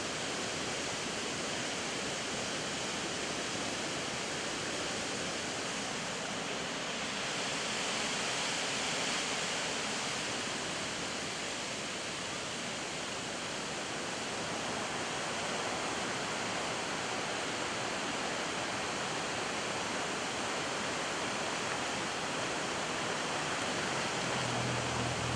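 Water cascading down a series of small falls into a stream, a steady, even rush. A low hum joins about a second before the end.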